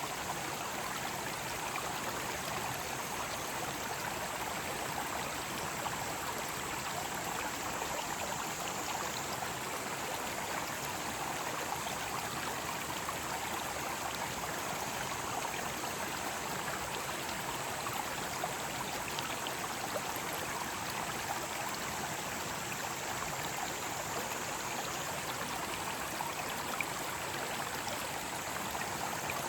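Mountain stream flowing with a steady, even rush of water. A high, steady drone of cicadas runs above it.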